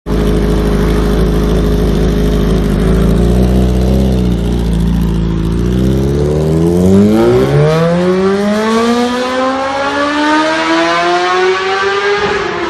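Suzuki GSX-R1000 K7's inline-four engine running at a steady note, then pulling with a smoothly rising pitch from about halfway through as the bike accelerates, with the note dropping right at the end.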